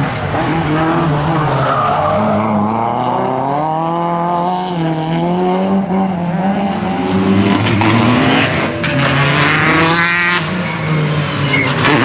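Rally car engine revving up and down hard, with tyres skidding and squealing.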